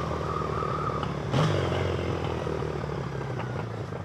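Triumph Bonneville's parallel-twin engine running at low revs, with a brief swell about a second and a half in, then easing off and getting quieter as the bike slows.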